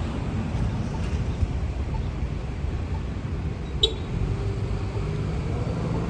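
Road traffic: a steady low rumble of passing vehicles, with an engine hum coming in about four seconds in. A single sharp click sounds just before it.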